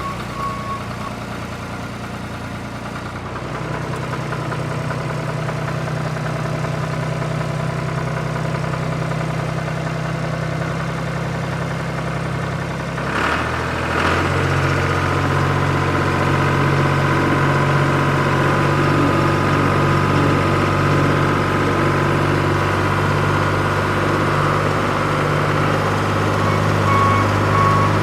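A vehicle engine running steadily, stepping up in pitch and loudness about halfway through. Short repeated beeps sound right at the start and again near the end.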